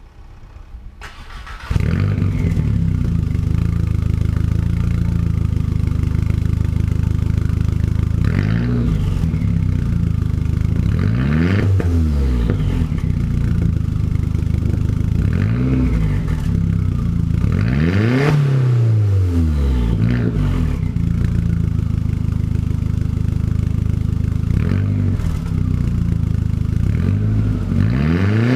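A 2001 VW Jetta's 1.8-litre turbocharged four-cylinder starts about two seconds in and runs through a stock exhaust with no muffler, just a straight piece of pipe where the muffler rotted off. It idles loudly and is blipped about six times, each rev rising and falling back to idle.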